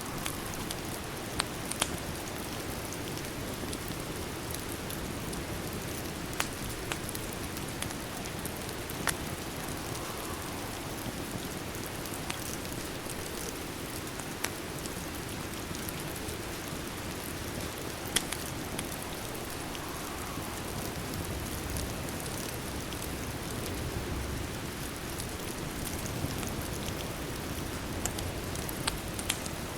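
Steady rain ambience, an even hiss, with a few sharp pops or crackles scattered through it.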